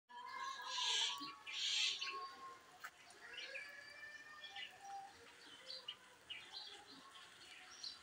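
Birds calling: two loud harsh squawks about a second in, followed by softer chirps and whistles.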